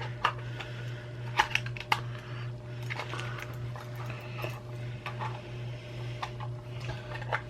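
Irregular small plastic clicks and taps from a computer mouse being pried apart and handled, over a steady low hum.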